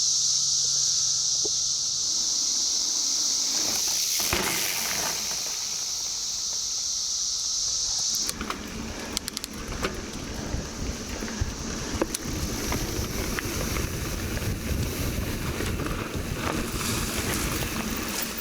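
Chorus of 17-year periodical cicadas, a steady high-pitched drone that cuts off suddenly about eight seconds in. After that, wind on the microphone and a mountain bike rolling over a dirt trail, with scattered clicks and knocks.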